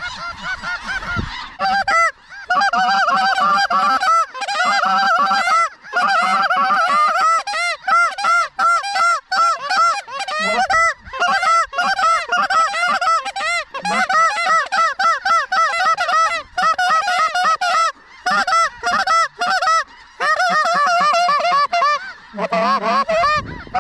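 A large flock of snow geese calling at once: a dense, continuous chorus of short, high honking yelps, getting louder about two seconds in.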